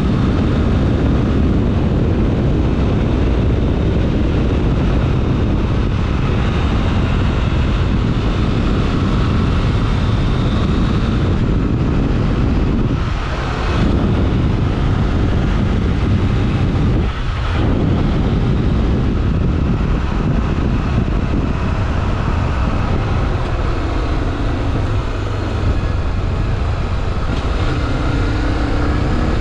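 Honda XRE 300 Rally's single-cylinder engine running under way, with wind and road noise. The engine sound drops briefly twice, about 13 and 17 seconds in.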